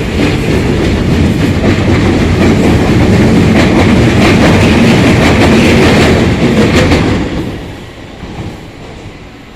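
Train running through the station, loud for about seven seconds and then fading away.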